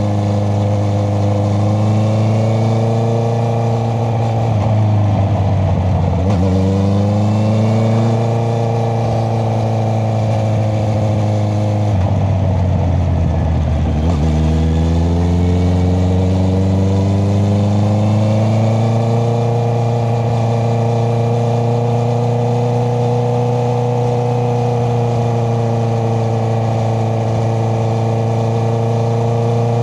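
Honda CBR650R inline-four engine running through an Akrapovic exhaust while riding. Twice the engine note sinks as the throttle is rolled off, then climbs back as the bike pulls away again. For the last third it holds a steady cruising note.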